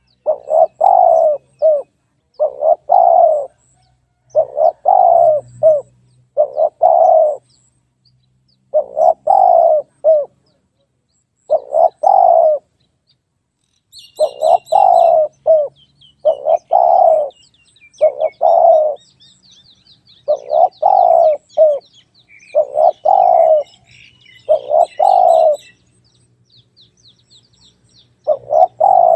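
Spotted dove cooing: short multi-note phrases, one about every two seconds, with a pause of about three seconds near the end. Faint high chirps of small birds join from about halfway.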